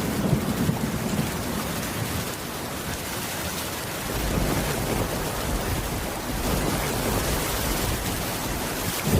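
Steady heavy rain with a low rumble of thunder underneath, growing stronger about four seconds in.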